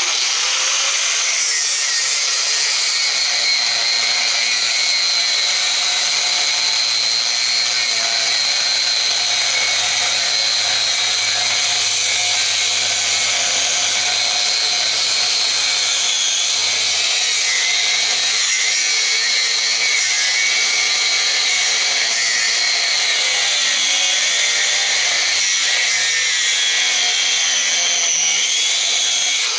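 Power cutting tool running continuously, cutting into the old belt/disc sander's metal around a screw, with a steady high whine whose pitch wavers slightly.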